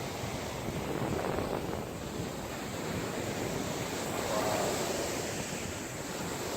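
Ocean surf washing on a beach, a steady rushing noise mixed with wind on the microphone.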